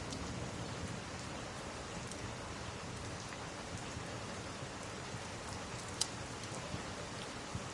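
Steady rain falling, an even hiss with a few faint sharp ticks, the clearest about six seconds in.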